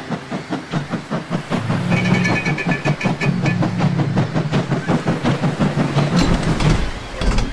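Train running: a rhythmic clatter of about four to five beats a second over a steady low hum, with a brief high tone about two seconds in and a low rumble near the end.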